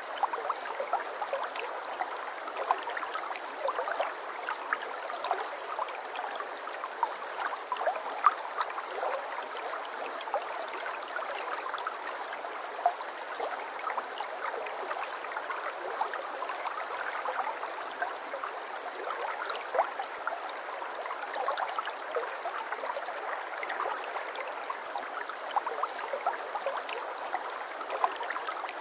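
Babbling brook: shallow running water flowing steadily, with many small splashes and drips ticking through it.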